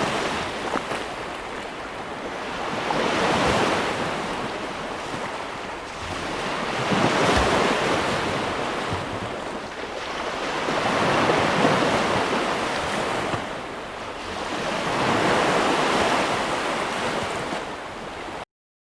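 Sea waves breaking on the shore, the rushing surf swelling and fading roughly every four seconds. The sound cuts off suddenly near the end.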